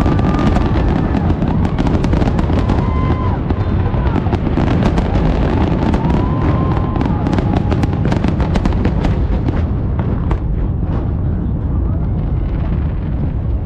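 Fireworks display: a dense, continuous barrage of booms under rapid crackling, the crackle thinning out in the last few seconds.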